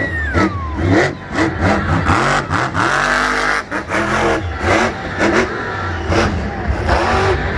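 Monster truck engine revving up and down again and again, its pitch climbing and falling in quick swells.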